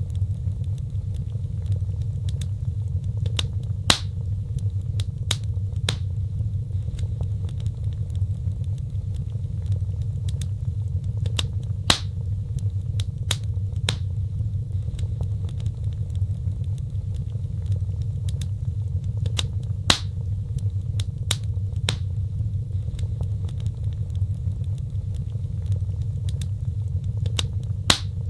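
Wood fire crackling in a fireplace: scattered sharp pops and snaps, a few louder ones about every eight seconds, over a steady low rumble.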